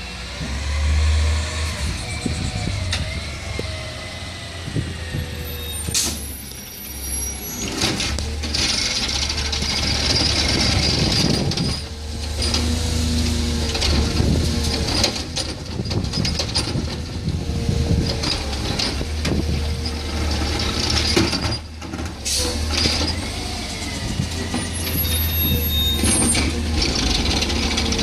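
Garbage truck engine running with a steady low rumble, broken by bursts of air hiss and knocks and clanks.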